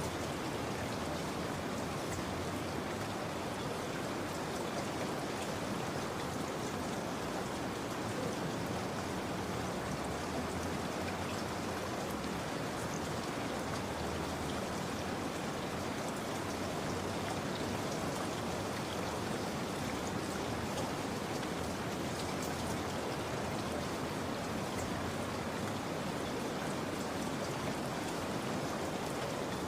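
Steady rain falling, an even wash with fine drop ticks, unchanging throughout.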